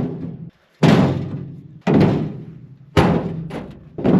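Cut firewood logs being tossed one at a time onto a load, each landing with a heavy thunk that rings out briefly; about one a second, four in all.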